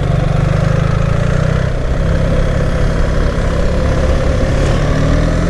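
BMW R 1300 GS boxer-twin engine running steadily while the motorcycle is ridden, with the pitch rising slightly near the end.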